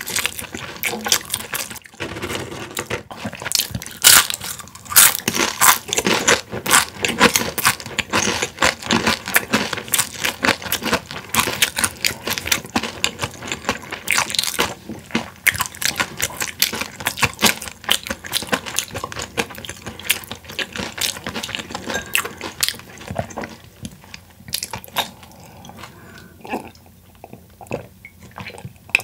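Close-miked crunching and chewing of crispy boneless fried chicken, a dense run of crunches that thins out and gets quieter over the last few seconds.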